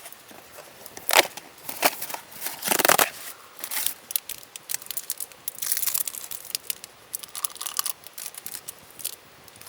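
Irregular close-up handling noises: short clicks, rustles and scrapes, with a longer tearing or crinkling sound about three seconds in and another cluster of rustling near six seconds.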